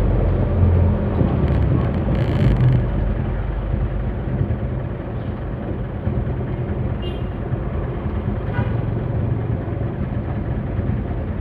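Truck engine running with road rumble while driving; it is louder in the first couple of seconds, then settles to a steady drone.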